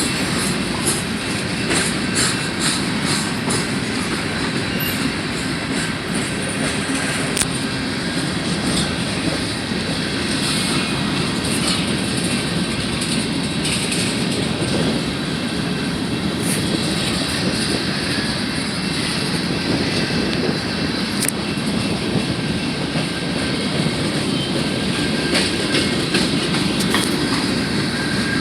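A long train rolling past, a steady rumble of rail cars with many sharp clicks and clanks from the wheels on the track.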